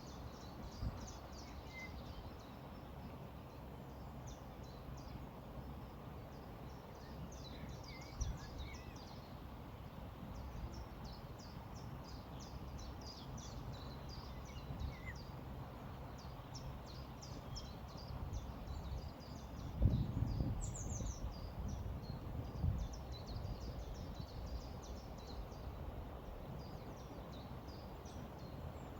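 Steady low rush of a flowing river with many small birds chirping high and quickly throughout, and one short falling whistle about 20 seconds in. A few low thumps break through, the loudest about 20 seconds in.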